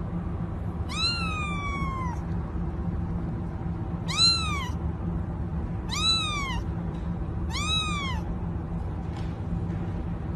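Domestic cat meowing four times, each a rising-then-falling call, the first the longest at about a second, over a steady low background rumble.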